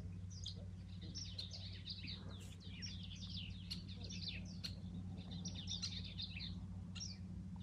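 A chorus of small birds chirping, many quick overlapping chirps with no pause, over a steady low hum.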